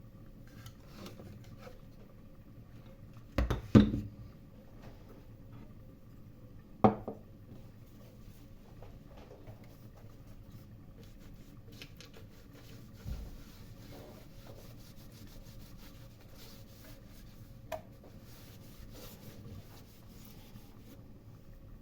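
Kitchen work: utensils and dishes handled, with a few knocks and clatters (the loudest a double knock about four seconds in, another sharp one near seven seconds) and quiet rubbing and scraping between them, plus a short ringing tick near the end.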